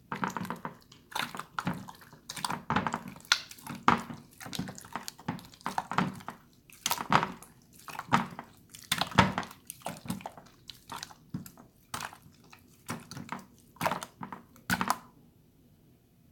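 Water slime being squished and slapped by hand: wet squelching sounds in quick irregular bursts, one or two a second, stopping near the end.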